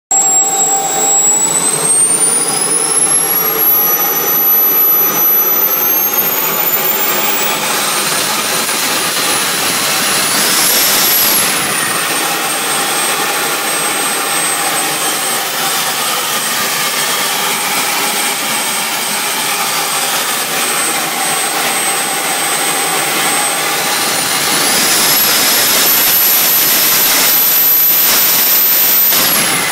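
Jet Central Cheetah model jet turbine running on its first start, with a high whine over a steady rushing sound. The pitch climbs as it spools up in the first few seconds, peaks briefly about a third of the way in, then drops back and holds steady. It spools up to a higher, louder whine for the last several seconds and begins to fall back right at the end.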